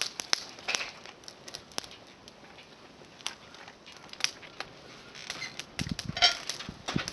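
Small twig campfire crackling, with sharp pops scattered throughout. About six seconds in, a louder cluster of knocks and rustling.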